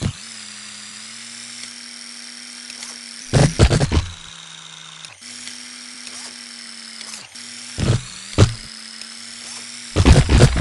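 Electric RC monster truck's motor whining steadily, with loud clattering knocks of the truck hitting and landing: a burst about a third of the way in, two sharp ones past the middle, and another burst near the end.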